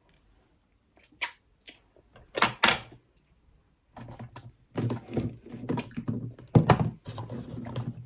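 Near silence at first, then a few sharp knocks and thuds, followed by a busier run of clattering and knocking from objects being handled and set down on a hard surface.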